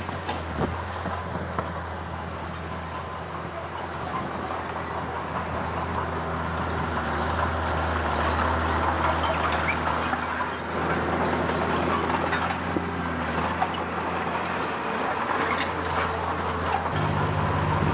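Komatsu D31P bulldozer's diesel engine running with a steady low drone, under a dense clatter and scraping of tracks and pushed rubble that grows louder from about six seconds in. The engine note changes near the end.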